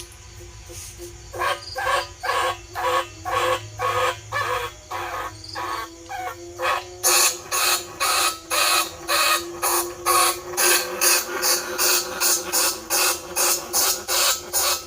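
Rat-lure squeaks imitating bandicoot rats, repeated in a steady rhythm of about two a second. About seven seconds in they become louder and shriller and come a little faster.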